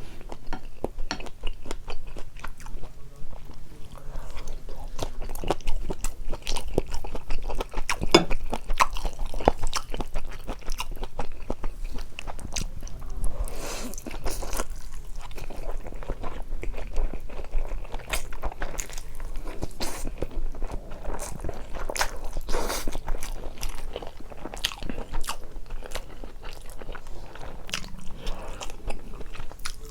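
A person chewing and biting into spicy buldak carbonara noodles with ham and Vienna sausages, making many quick, irregular mouth clicks with a few longer noisy smacks or slurps.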